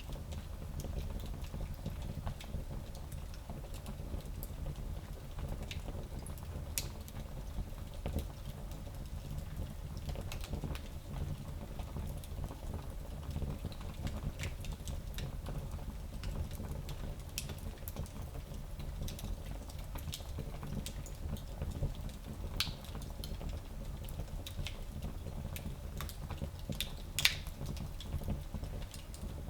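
Fire burning in a fireplace: a steady low rumble of flames with irregular sharp crackles and pops, one louder pop near the end.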